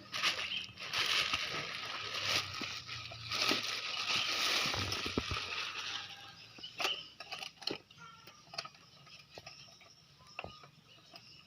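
Packaging rustling as a new brush cutter is unpacked for about six seconds, then scattered clicks and light knocks of its parts being handled.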